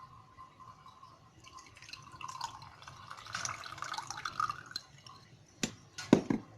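Lemon juice being squeezed out of a halved lemon, dripping and trickling into a glass, followed by three sharp knocks near the end.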